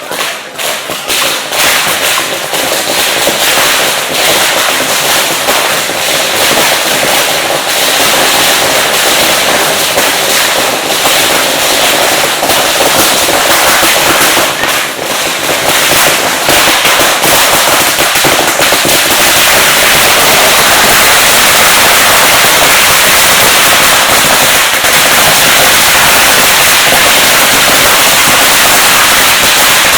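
Firecrackers going off in a dense, rapid, continuous crackle, building over the first couple of seconds and then holding loud and even.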